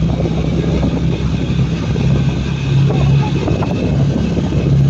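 Motorcycle engine running steadily while riding, its note shifting a little in pitch with the throttle, with wind rushing over the microphone.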